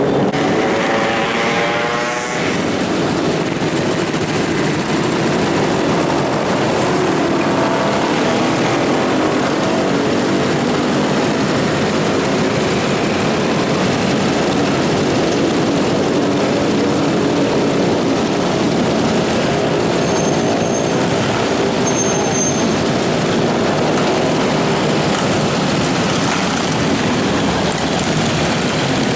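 Large-displacement sport motorcycle engines running in heavy traffic, with a steady, dense drone. One bike revs up with a rising pitch in the first couple of seconds.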